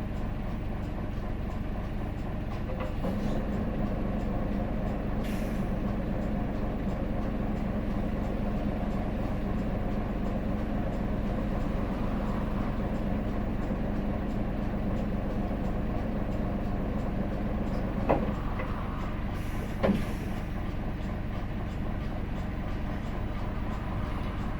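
Hino Blue Ribbon City city bus heard from inside the cabin, its diesel engine running with a steady drone that grows a little louder about three seconds in. There are two short air hisses, one about five seconds in and one near the end, and a couple of sharp knocks a little before it.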